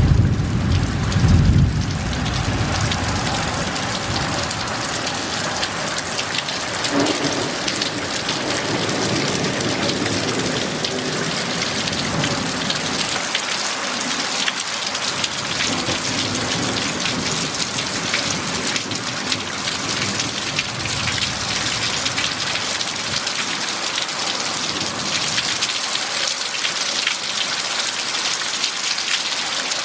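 Heavy rain falling steadily in a thunderstorm. A loud thunder rumble sounds in the first couple of seconds, and lower rolling thunder follows and fades away over the first half or so.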